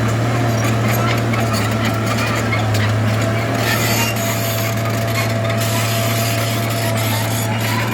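Heavy diesel earthmoving machine running steadily, with a low engine hum, a thin steady whine and irregular clicks and rattles.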